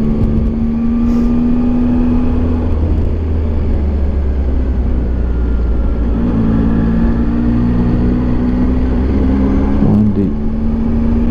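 Triumph Tiger 800 XRT motorcycle's three-cylinder engine running under way, with wind and road noise. The engine's steady note falls away about a quarter of the way in, then picks up again a little past halfway.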